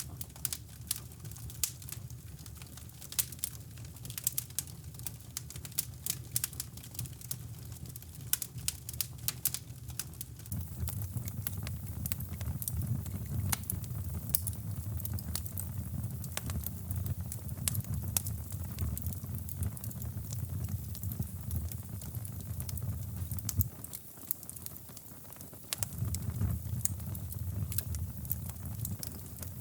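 Crackling fireplace fire: a stream of sharp pops and snaps over a low rumble that grows stronger about a third of the way in, drops out for about two seconds near the end, then returns.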